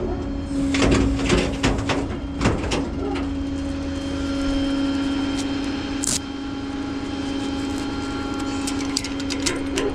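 Hydraulic tilt bed of a rollback tow truck being worked: a steady pump hum with repeated creaks, squeaks and clicks from the bed, weird sounds that are horrifying to the ears.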